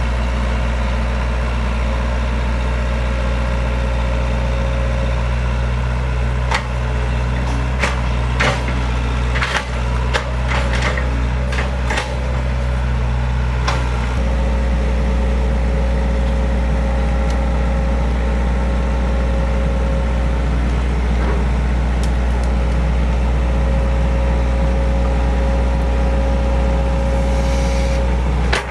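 Heavy diesel excavator engine running steadily, its note dropping a step about halfway through. A run of sharp cracks and knocks comes over it between about six and twelve seconds in.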